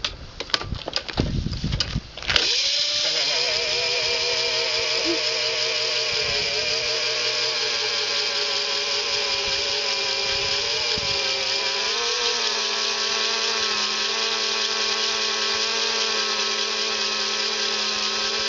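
Razor MX500 electric dirt bike's motor starting up after about two seconds of knocks and rattles, then holding a steady high whine with a slight waver in pitch as the rear wheel spins in place for a burnout.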